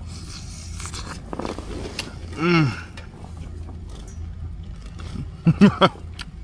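A man's brief wordless vocal sounds of enjoyment: one falling 'mmm' about two and a half seconds in and a few quick ones near the end, over a steady low hum with faint scattered clicks.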